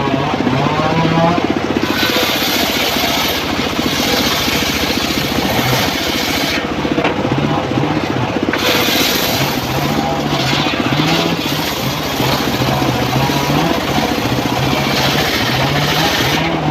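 Homemade engine-driven circular sawmill running steadily. Several stretches of loud hissing as the blade rips through teak: starting about two seconds in, again around four and nine seconds, and near the end.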